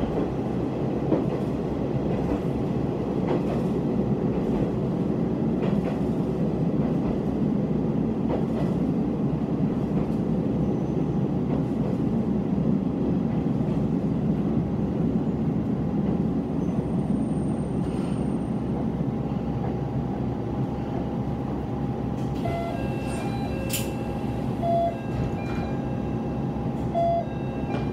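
Diesel railcar heard from inside, running steadily along the line and then slowing to a stop at a station platform in the last seconds. A few short tones sound near the end.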